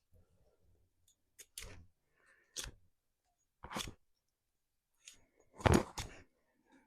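Hammer tapping on wood: about five sharp, irregularly spaced knocks, with the loudest pair coming near the end.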